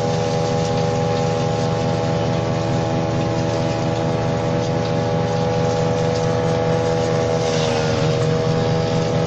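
Engine-driven WR 700 branch shredder running steadily at speed. About eight seconds in its note sags briefly, with a short rush of noise, then recovers.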